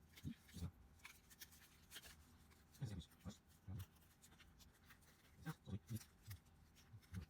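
Near silence with faint, scattered clicks and light taps of small plastic N scale model parts being handled.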